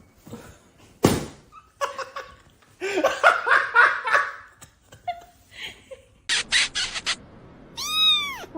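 A person laughing in a quick run of bursts, after a sharp knock about a second in. Near the end comes one high call that rises and then falls.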